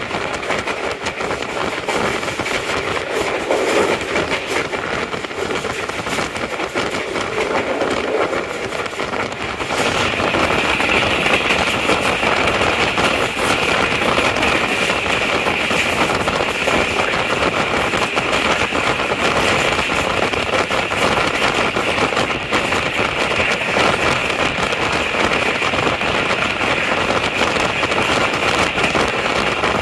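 Passenger train running along the track, heard from inside a coach: a steady rumble and rapid rattling clatter of the wheels and coach. About ten seconds in it becomes louder, with a steady hiss added.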